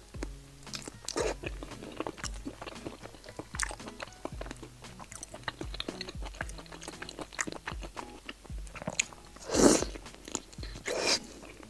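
Close, wet chewing and mouth smacks of a person eating soft, sauce-coated pig large intestine stuffed with pig brain, with louder wet bites about nine and a half seconds in and again near the end. Faint background music runs underneath.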